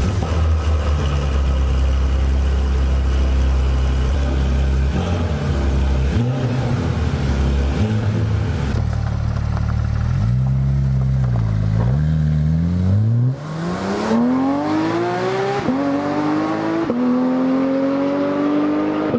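Porsche GT3 RS's 4-litre flat-six idling, raspy down low, then blipped in short revs. From about ten seconds in it pulls away, its pitch climbing through quick upshifts, each shift dropping the note before it climbs again.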